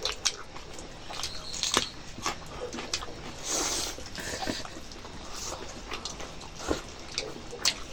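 Close-up eating sounds of a person eating rice and chicken curry: a string of short, wet mouth clicks and smacks while chewing, with a longer noisy stretch about three and a half seconds in.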